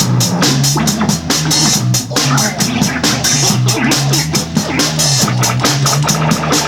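A live band playing an instrumental passage, the drum kit keeping a steady, fast beat over shifting low notes.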